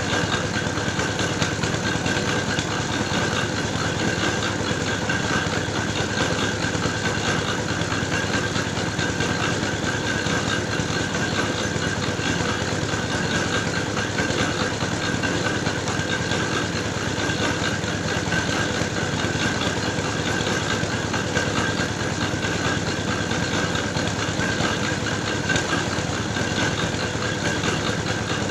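Engine-driven soil grinding machine running steadily, milling clay into dough for red bricks, with a constant whine over the engine noise.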